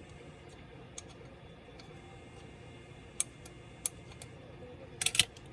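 Small hard parts of a Dell Latitude 3301 laptop clicking and tapping as it is taken apart by hand: a few single sharp clicks spaced apart, then a quick cluster of louder clicks near the end.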